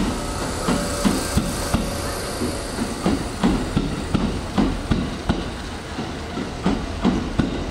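Electric commuter train running on the line, its wheels knocking over rail joints and points in a clattering series of two or three knocks a second over a steady running noise.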